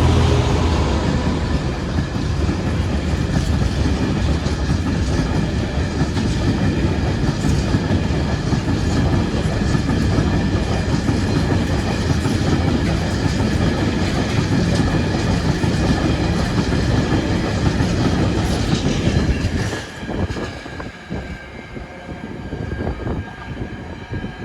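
A train rolling past at close range, its wheels on the rails making a steady loud rumble that drops away about twenty seconds in.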